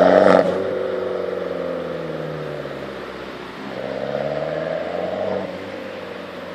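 Exhaust note of a 2013 Abarth 595 Competizione's 1.4-litre turbocharged four-cylinder through a Magneti Marelli Bombardone 2.0 race-spec exhaust. It is loud under throttle, drops off about half a second in, and falls in pitch as the revs come down. A second, shorter swell comes around four seconds in before it fades.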